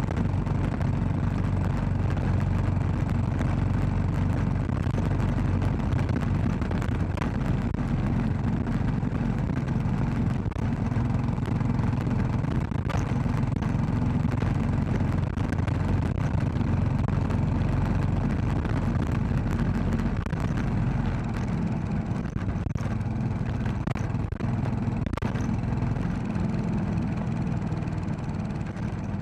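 Royal Enfield Classic 500's single-cylinder engine running under way at a steady speed, with many short clicks and ticks over it. The engine eases off slightly about two-thirds through.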